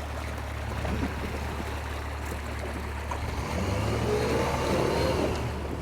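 Four-wheel-drive vehicle's engine running under a steady low hum, rising in pitch as it revs from about three and a half seconds in, with a rushing noise over it.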